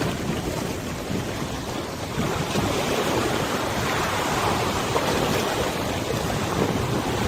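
River water washing and lapping, with wind buffeting the microphone in an uneven low rumble.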